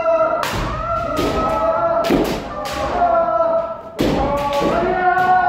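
Kendo practice: several practitioners' long, held kiai shouts overlapping, cut through by repeated sharp impacts from shinai strikes and stamping footwork (fumikomi).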